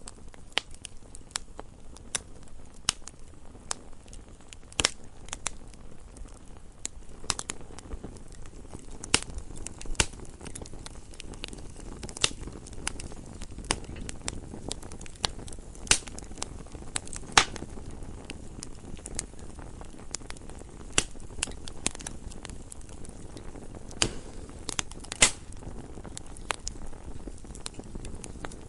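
Campfire burning with a low steady rumble of flames and irregular crackles and pops of burning wood, a few pops sharper and louder than the rest.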